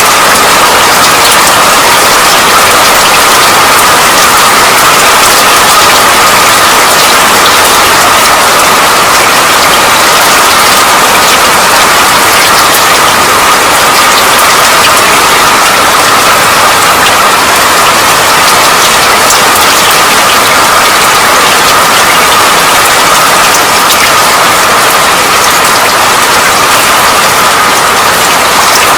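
Steady rain: a dense, even hiss of falling rain with a fine patter of drops, unbroken throughout.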